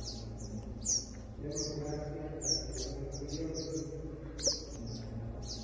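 Birds chirping: a string of short, high chirps, each sweeping downward, repeating irregularly and sometimes several in quick succession.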